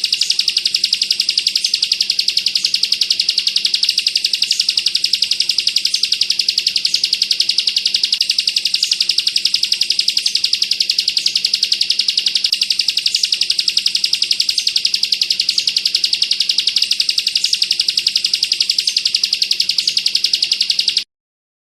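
Bar-winged prinia (ciblek kristal) singing its 'bren' song: a long, unbroken, machine-gun-fast trill of high repeated notes. It cuts off abruptly near the end.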